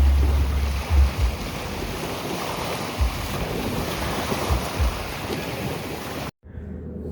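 Outdoor wind and water noise, a steady rushing with irregular deep rumbles of wind buffeting the microphone. It cuts off abruptly near the end, and a quieter, steady low hum follows.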